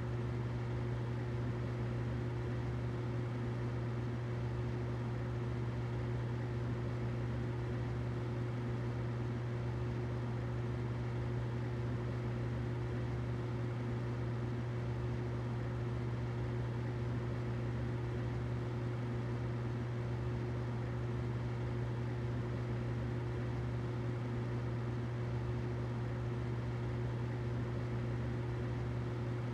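Humidifier running steadily: a constant low hum with a fainter higher tone above it and a soft hiss over both.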